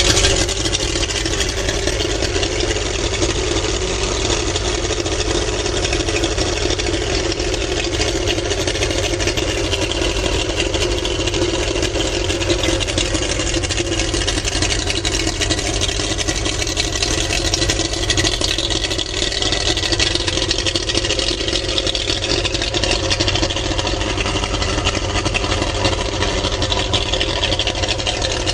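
2002 Mercury 150 hp two-stroke outboard motor running steadily at idle.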